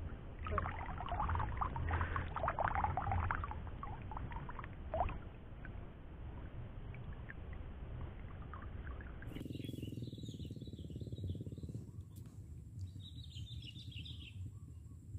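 Water sloshing and splashing in irregular bursts for the first few seconds, as from someone wading in shallow reservoir water. Then a quieter stretch with a few faint bird chirps.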